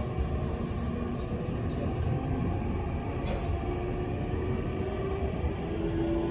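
Tokyu 7000 series commuter train (later-type set 7112F, Toshiba IGBT VVVF drive) running, heard inside the car: a steady rumble of wheels on rails with faint tones from the traction motors and inverter, one rising slightly in pitch in the second half.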